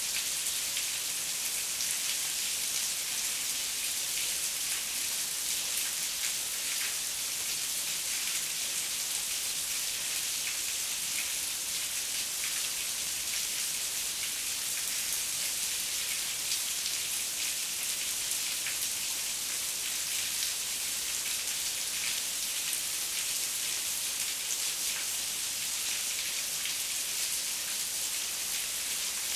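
Heavy rain falling steadily: an even hiss with the fine ticks of single drops, unchanging throughout.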